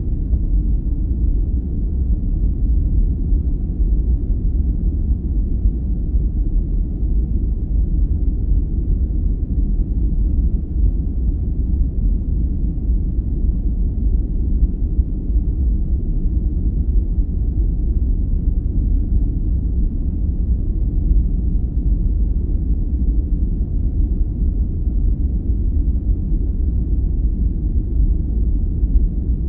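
Sleep-aid 'white noise' track: a steady, unchanging deep noise that sits low and dull, with almost nothing in the upper range and no hiss.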